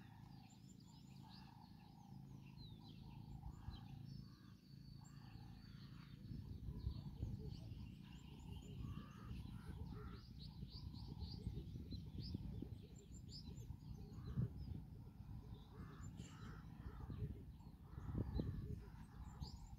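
Birds chirping and calling, many short high chirps following one another throughout, over a low rumble.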